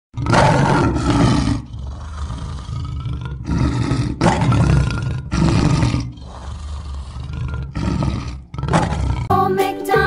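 Big cat roaring and growling: a run of about six loud roars, each a second or less, with lower rumbling growls between them. Children's music starts up near the end.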